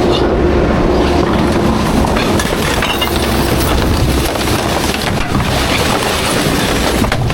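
Garbage truck running, a steady loud engine and road rumble with a faint hum, and scattered rattles and knocks.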